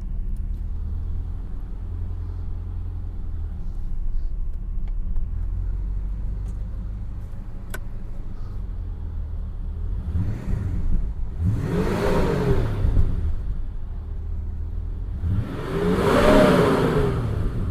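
1980 Mercedes-Benz 500 SE's V8, its muffler removed, running with a steady low rumble, then revved twice, about eleven and sixteen seconds in, each rev climbing in pitch and falling back.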